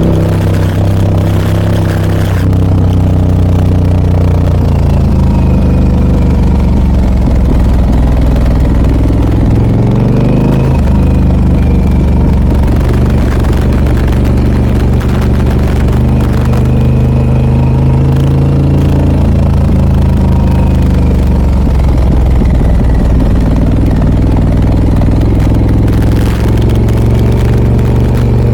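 Harley-Davidson Pan America 1250 Special's Revolution Max 1250 V-twin running through a Scorpion aftermarket exhaust, under way. The engine note rises and falls with the throttle, and dips sharply then climbs again about ten seconds in.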